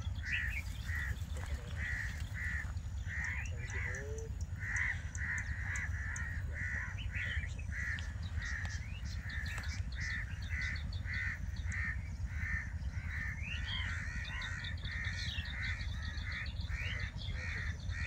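Birds calling continuously: one call repeated over and over at an even pace of about two or three a second, with thinner, higher chirps from other birds over it, above a steady low rumble.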